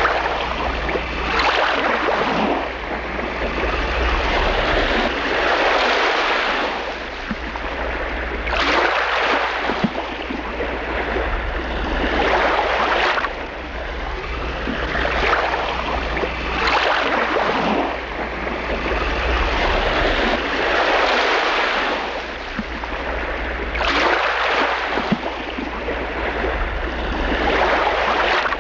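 Small waves washing against a shore in repeated surges, one every two to four seconds, over a steady low rumble.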